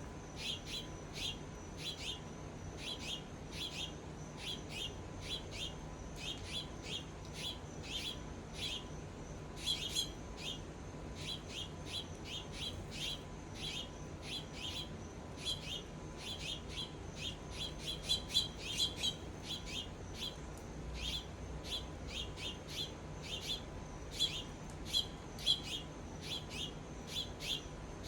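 Birds chirping around a backyard feeder: a steady run of short, sharp chirps at about three a second, with a few louder ones in the second half.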